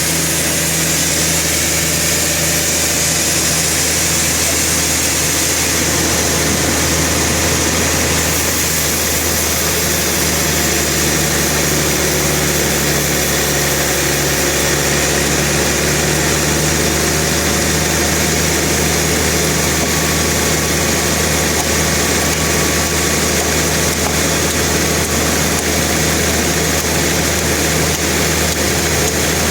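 Sawmill machinery running steadily, an even engine-like hum with a hiss above it and no cutting strokes or breaks.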